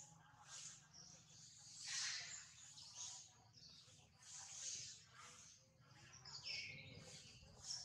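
Faint outdoor ambience with scattered bird chirps over a low steady hum.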